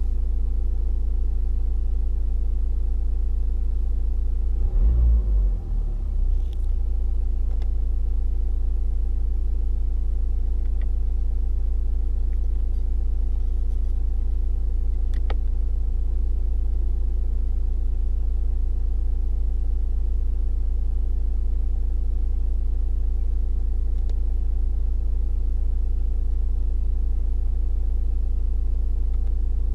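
Nissan Juke's 1.5 dCi turbodiesel four-cylinder idling with a steady low note, with a brief unsteady blip in the note around five seconds in and a single sharp click about halfway through.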